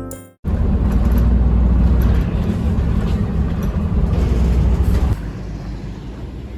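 Background music cuts off abruptly, followed by a loud, steady low rumbling noise that drops to a softer level about five seconds in.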